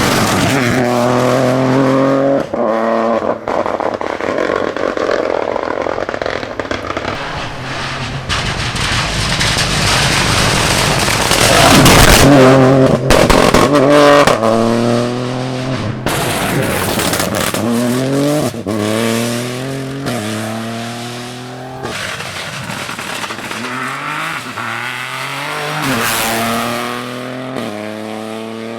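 Rally car engine accelerating hard, its pitch climbing and dropping back again and again as it shifts up through the gears. It is loudest about twelve seconds in as the car comes closest, then fades while still pulling through upshifts.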